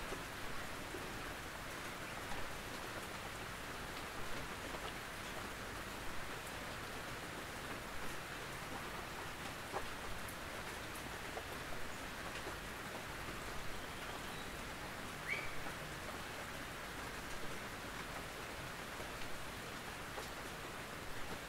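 Gentle rain pattering steadily on a tin roof, with louder single drops every second or two.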